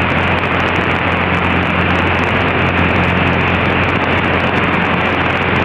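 Steady cockpit drone of a Cessna 172SP's four-cylinder Lycoming engine and propeller running at a constant setting in flight, a continuous even noise with a low steady hum underneath.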